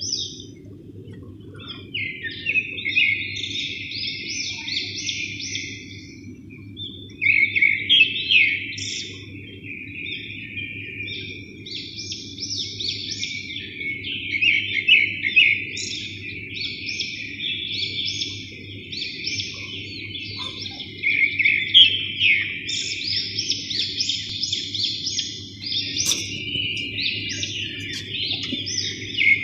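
Small birds chirping and twittering in dense, overlapping bursts throughout, over a steady low hum.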